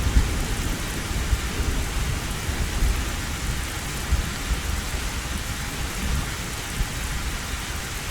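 Heavy rain drumming on an old tin roof, with low thunder rumbling that gradually dies away as the rain keeps on steadily.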